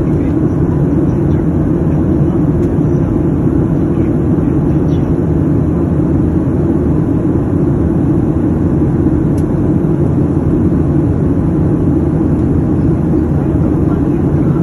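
Steady cabin noise of an airliner in flight: an even, low rush of engines and airflow that does not change.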